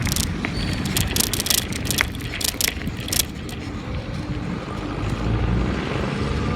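Low rumble of a motor vehicle engine, growing louder near the end, with sharp rattling clicks mostly in the first half.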